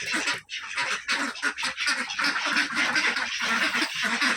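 Domestic waterfowl calling in a steady run of harsh quacks and honks, several birds at once.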